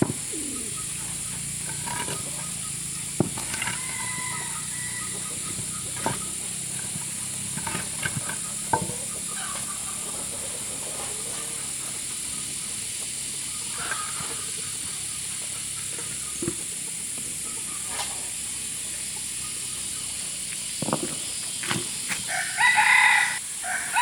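A rooster crowing loudly near the end, with fainter fowl calls earlier. Scattered sharp knocks and a steady high hiss run underneath.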